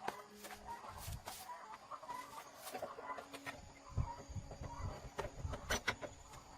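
Chickens clucking, with scattered sharp clicks and knocks of work on a motorcycle.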